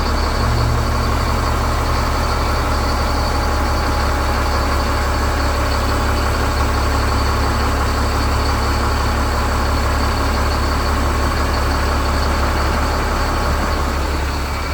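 Dump truck's diesel engine running steadily with the PTO engaged, driving the hydraulic hoist as the dump box raises. A steady low drone that eases near the end.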